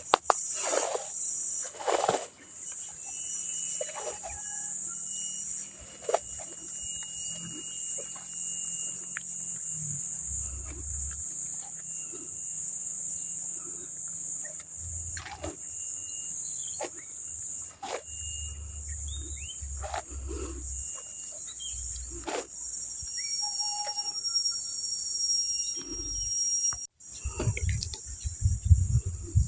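Steady high-pitched chorus of insects, crickets or similar, with short thin bird calls scattered through it and occasional sharp clicks and low rumbles.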